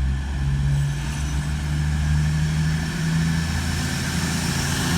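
Underfloor diesel engines of a Class 222 Meridian diesel multiple unit running steadily with a low hum as the train pulls away.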